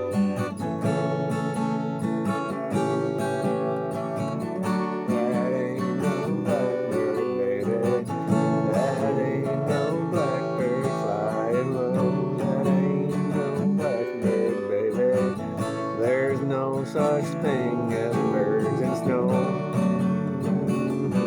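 Acoustic guitar strummed steadily through chords, with a wavering melody line over it from about five seconds in.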